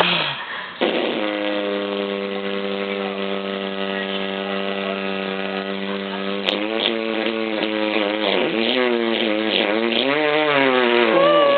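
A long drawn-out vocal note, held on one steady pitch for about five seconds, then wavering up and down in pitch through the rest.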